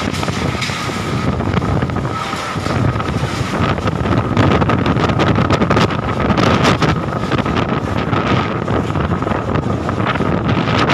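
Strong storm wind gusting loudly and buffeting the microphone, with many sharp clattering hits through the middle and a steady thin high tone running throughout.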